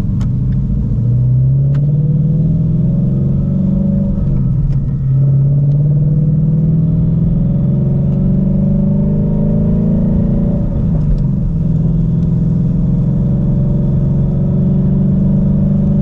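Shelby GT350's 5.2-litre flat-plane-crank V8 under moderate acceleration, its pitch climbing, falling back about four and a half seconds in and again about ten and a half seconds in as it shifts up, then holding steady at a cruise.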